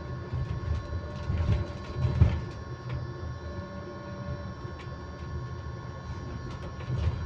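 Electric bus on the move, heard from inside: a steady whine holds one constant pitch over low road rumble and light rattles, with one louder knock about two seconds in.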